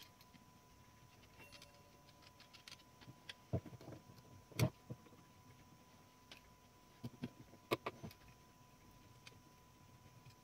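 Scattered small metallic clicks and knocks of tools and parts being handled while a 1912 Mercedes No. 3 typewriter is taken apart, with the sharpest knock about four and a half seconds in and another cluster around eight seconds.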